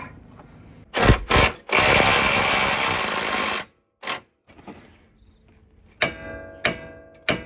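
A few sharp metal knocks, then a power tool runs steadily for about two seconds and stops suddenly while suspension bolts are worked loose. Near the end come a few clinks of metal with a short ring.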